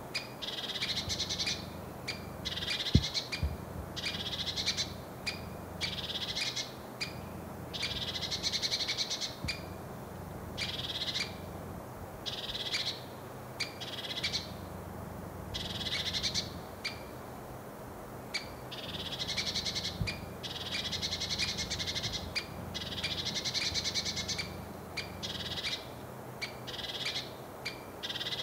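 Lesser spotted woodpecker giving its alarm call: run after run of rapid, high-pitched notes, each run lasting about a second, with short pauses between them.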